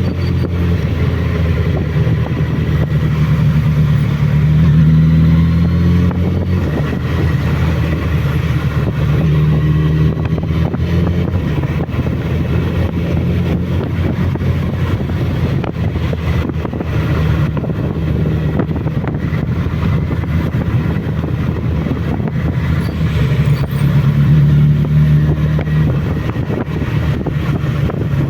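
Suzuki Bandit motorcycle's inline-four engine running on the road, its pitch rising and falling a few times as the revs change.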